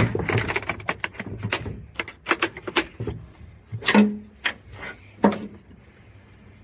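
Irregular clicks, knocks and light rattles of objects being handled, with louder knocks about four and five seconds in, then quieter toward the end.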